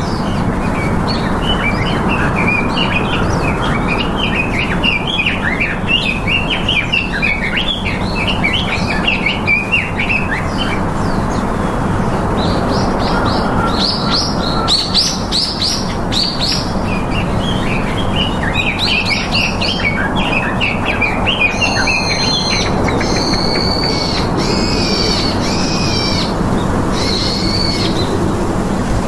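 Many small birds chirping and twittering in quick, dense bursts, with clearer repeated calls in the last several seconds, over a steady low background hum.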